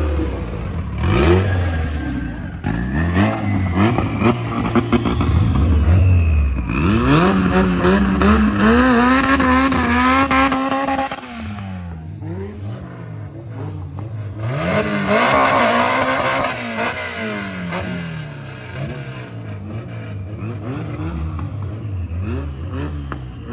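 Honda Civic B-series four-cylinder engines under hard acceleration, climbing in pitch through each gear and dropping back at every shift. Near the middle the engines rev up and back down again, then rise and fall more slowly toward the end.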